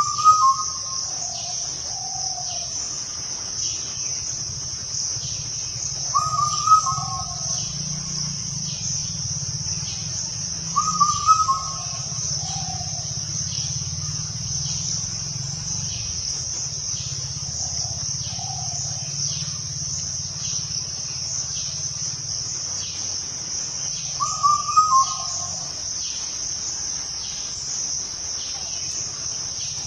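A bird calling in short phrases four times, several seconds apart, over a continuous high-pitched drone of insects.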